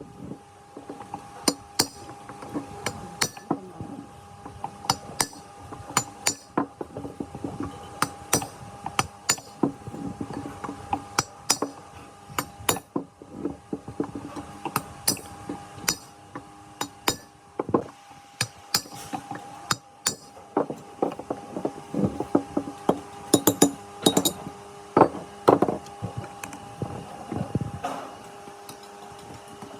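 Light metallic tapping and clinking of hand tools on metal parts, irregular strikes about one or two a second, loudest and densest in the second half, over a steady hum.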